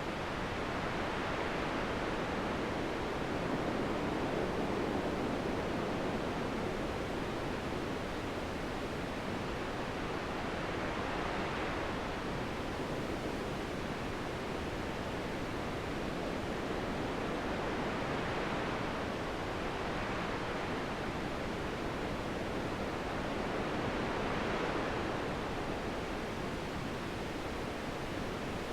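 Wind blowing steadily, in soft gusts that swell and ease every several seconds.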